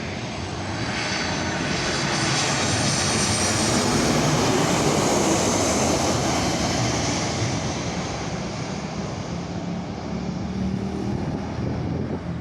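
Lion Air airliner passing on its landing approach: engine noise swelling to a peak about four to six seconds in, then slowly fading, with a high whine that drifts lower in pitch as it goes by.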